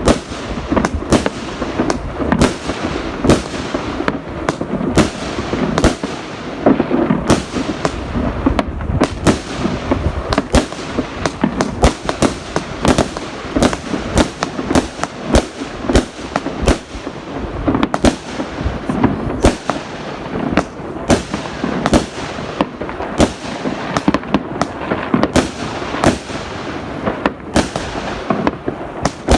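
Fireworks and firecrackers exploding almost nonstop, dense overlapping bangs and cracks several a second over a continuous rumble of distant blasts.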